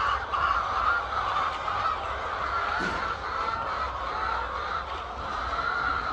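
A large flock of chickens calling all at once, a dense continuous chorus of overlapping clucks and squawks.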